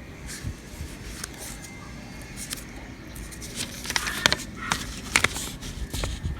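Handling noises: light scraping and rustling, then a cluster of sharp clicks and crackles about four to six seconds in.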